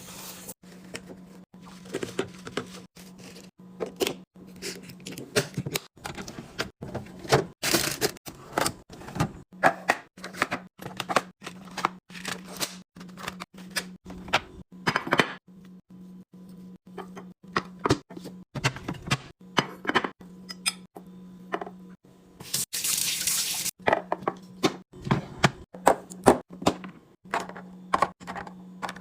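Restocking sounds: containers and packaging being handled and set down in a fridge, many light clicks and knocks, with a few stretches of about a second of liquid being poured. A steady low hum runs underneath.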